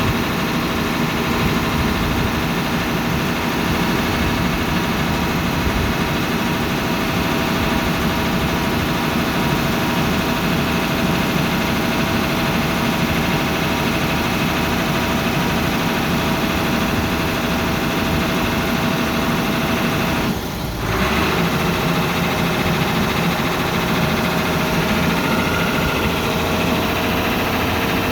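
Hino Ranger's H07C straight-six diesel engine running steadily at idle. Its sound drops out briefly about three-quarters of the way through.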